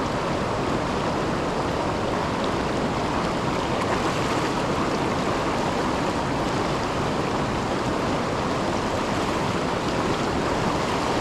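Water of the Milwaukee River rushing over and below the Kletzsch waterfall: a steady, unbroken rush.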